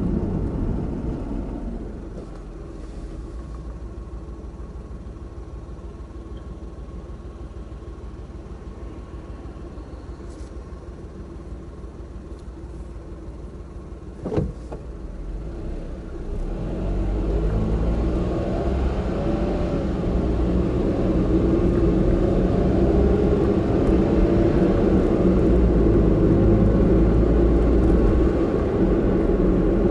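Car driving noise: the car slows about two seconds in and runs quietly for a while, a single sharp click comes about halfway, then engine and road noise build again as it pulls away and speeds up.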